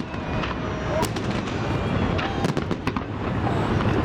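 Fireworks salute going off: a rapid series of sharp bangs and crackles over a dense low rumble.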